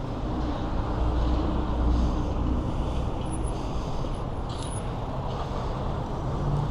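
Road traffic: motor vehicle engines running close by with a low hum, over a steady rush of road noise. Two faint, brief high-pitched squeals about three and four seconds in.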